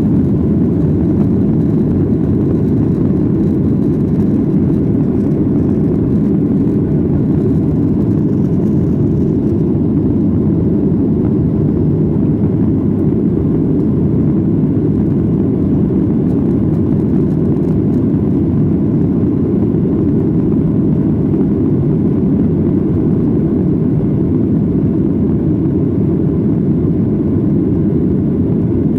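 Cabin noise inside a Boeing 737-800 with its CFM56-7B turbofans at high thrust after takeoff: a steady, low rushing drone of engines and airflow that holds level throughout.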